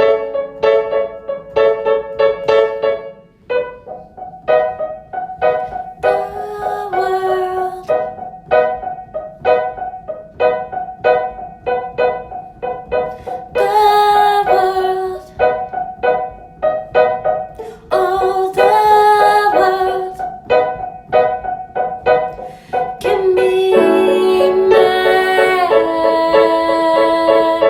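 Piano music: a steady pulse of repeated struck chords, with held melody notes joining in several times.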